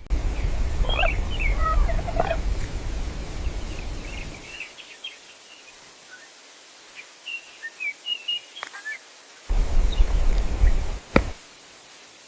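Birds chirping in short calls, over a low rumbling noise that drops away after about four and a half seconds and returns near the end.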